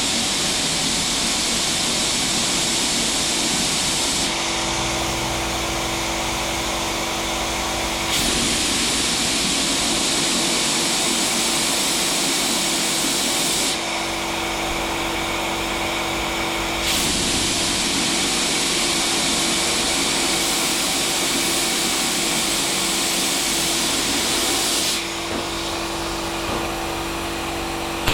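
A power tool running without a break. A high hiss rises and falls back in stretches of several seconds, over a steady motor hum.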